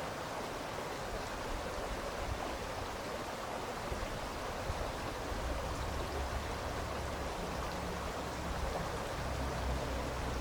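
Steady rush of running stream water, with a low rumble coming in about halfway through.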